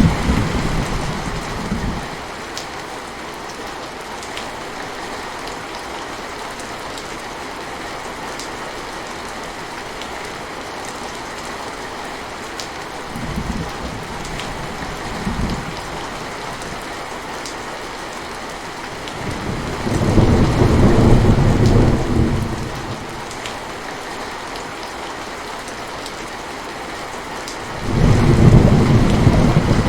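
Steady rain with rolls of thunder: a low rumble dies away in the first two seconds, two faint rumbles come around the middle, and louder rolls come about two-thirds through and again near the end.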